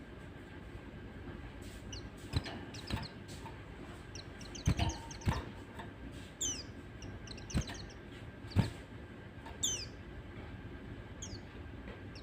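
White-eyes (pleci) giving short high chirps and quick falling calls, scattered and irregular. Several sharp knocks, louder than the calls, come in between.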